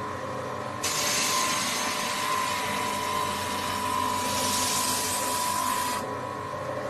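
SH30-2 woodworking spindle moulder running with a steady whine. A bright hiss joins about a second in and drops away about six seconds in.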